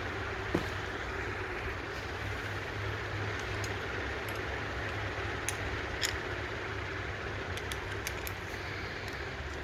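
Scattered light metallic clicks and taps of hand tools and small parts being handled, over a steady low hum. A few sharp clicks fall about half a second in, around five to six seconds in, and in a quick cluster near eight seconds.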